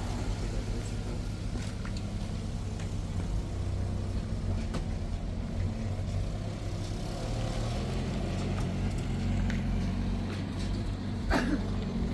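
A motor vehicle's engine running steadily, with scattered light clicks and rattles and one sharper knock about a second before the end.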